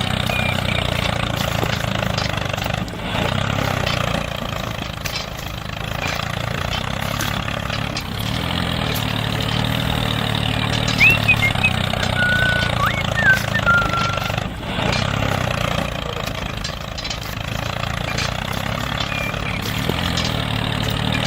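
Engine of a mini tractor running steadily, with a few short high chirps a little past the middle.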